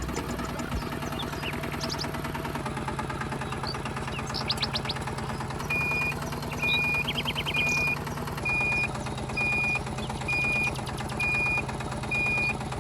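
Small motor of a DIY mini tractor running steadily with a low hum. From about halfway in, a reversing beeper sounds at an even pace, a little more than once a second.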